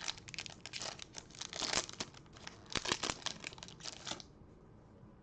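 Foil wrapper of a baseball card pack crinkling and tearing as it is opened; the crackling stops a little after four seconds in.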